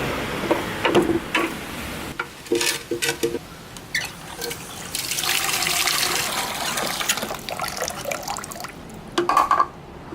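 Liquid running or being filled, with scattered clinks and knocks; a steadier hiss of it is heard about halfway through.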